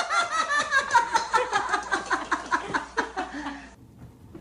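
A rapid run of high-pitched laughter, about five or six pulses a second, falling slightly in pitch and cutting off abruptly near the end.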